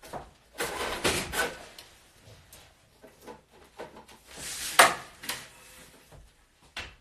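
Rustling and knocking of things being handled and moved, with a sharp knock just before the five-second mark.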